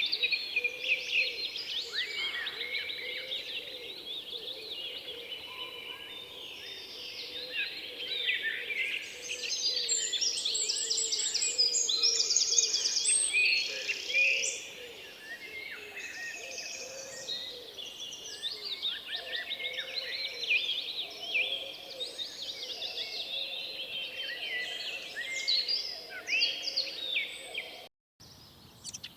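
Dense chorus of many birds chirping, trilling and whistling at once, over a steady low hum. Near the end the sound cuts out for an instant and comes back much quieter.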